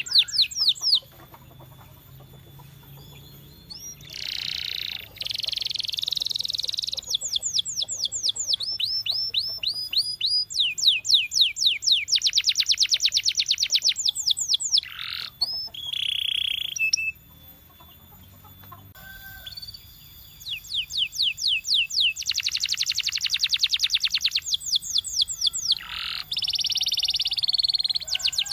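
Domestic canary singing in phrases: fast trills of rapidly repeated high notes alternating with smoother, buzzier rolls, with brief pauses between phrases.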